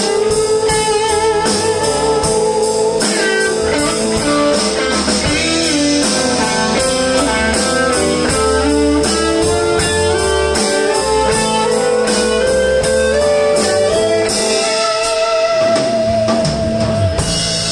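Live blues band playing an instrumental passage: electric guitar, bass and drum kit, with long held, bent lead notes over steady cymbal strokes.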